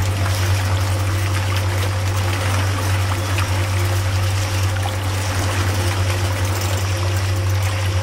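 Miniature sugarcane juice press running steadily as sugarcane is fed between its rollers: a constant low hum under an even rushing noise.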